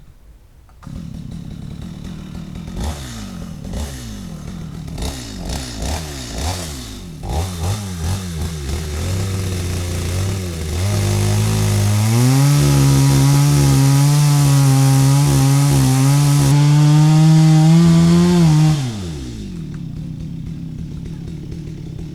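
Stihl MS 250 two-stroke chainsaw blipping its throttle several times, then held at full throttle for about seven seconds through a cut into wood, its pitch wavering under load. It drops back to idle near the end.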